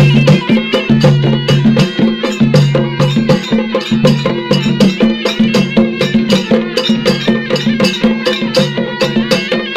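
Traditional tribal folk music: fast, even drum strokes over a sustained melody that moves in steps and repeats.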